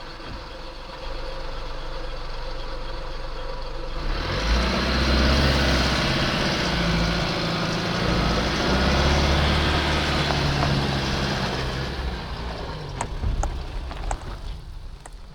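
A four-wheel drive's engine working hard as the car pushes through soft, boggy sand, heard from inside the cabin. A loud rushing noise builds from about four seconds in and eases off, with a few sharp clicks and knocks near the end. The car is being driven without low range on a clutch the driver says is destroyed.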